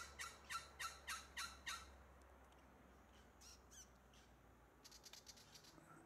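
Willie wagtail's harsh scolding chatter: a quick run of about seven rasping notes, three or four a second, in the first two seconds, then a few fainter calls and a short flurry of faint chattering notes about five seconds in.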